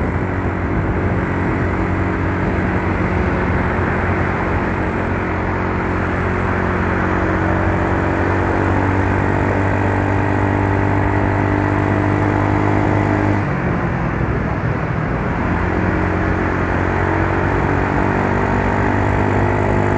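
Yamaha Mio Soul scooter's single-cylinder engine running steadily under way, with a rush of wind and road noise. About two-thirds of the way through the engine note dips and wavers for a couple of seconds, then settles again. The scooter is running smoothly.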